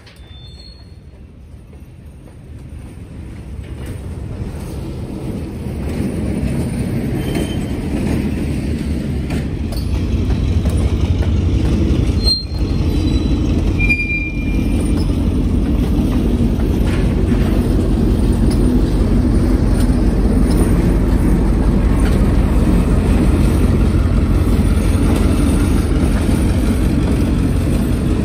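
Freight train on the branchline growing steadily louder over about ten seconds, then a loud, steady rumble as it passes close, with a few brief high wheel squeals.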